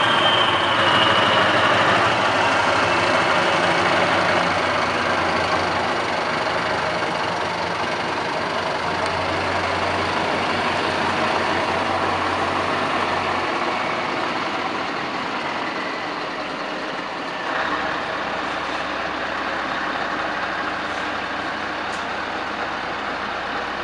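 Scania V8 truck engine running steadily, slowly growing fainter, with a brief rise about 17 seconds in.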